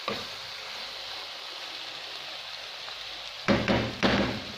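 Diced eggplant and chickpeas sizzling in a frying pan with a steady hiss. About three and a half seconds in, a spatula stirs them twice with louder scraping, shuffling strokes.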